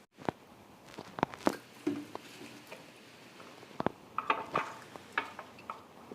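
A spoon stirring slime in a container, with scattered sharp clicks and knocks against the container's side and a quick run of them about four seconds in.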